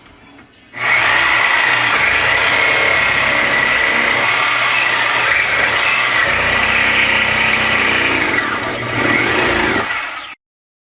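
A loud machine motor running steadily with a high whine. It starts suddenly about a second in and cuts off abruptly near the end.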